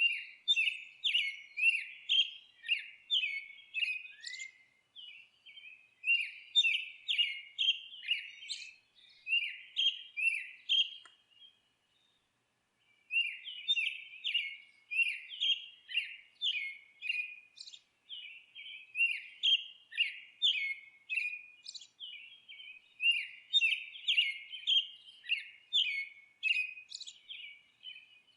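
Songbirds chirping and twittering: a quick, continuous run of short, downward-slurred chirps, about two a second, with a brief pause around halfway through.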